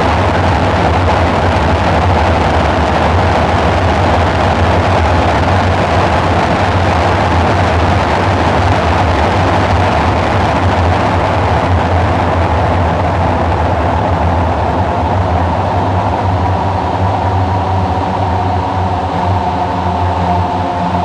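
Dark ambient synthesizer drone: a dense, rumbling wall of noise with a heavy low hum. In the last few seconds the high hiss thins and several steady pitched tones come through.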